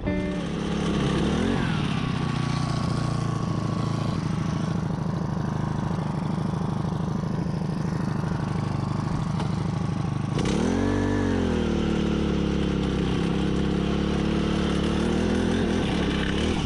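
Small gasoline engine, likely a gas-powered ice auger, running steadily. Its pitch swells briefly about a second and a half in, and rises and falls again about ten seconds in.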